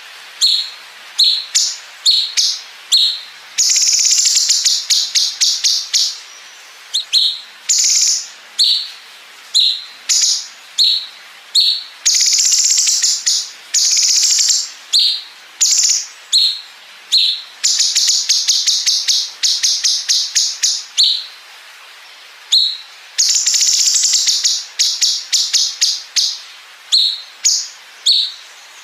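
Cucak cungkok song with long 'bren' phrases: rapid buzzy rattling trills a second or more long, alternating with short sharp high chirps, repeating over and over.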